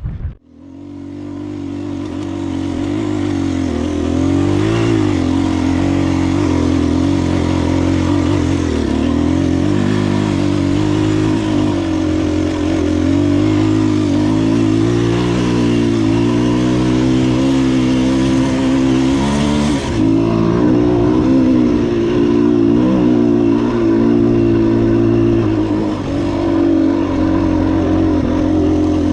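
Enduro dirt bike engine running under way on a trail, its revs rising and falling with the throttle.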